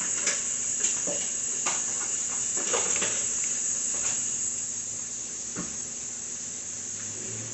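Irregular clicks and taps of a kitchen utensil working seasonings into a dumpling filling, over a steady high-pitched hiss.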